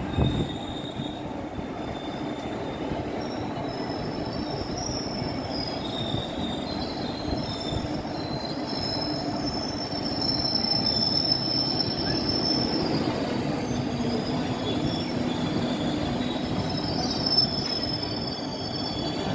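Passenger train rolling slowly into a station platform: a steady low rumble of wheels on rail, with thin high-pitched wheel squeal coming and going above it. It grows louder from about ten seconds in.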